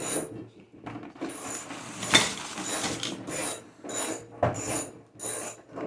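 Ratchet wrench being cranked in repeated short strokes, about one to two a second.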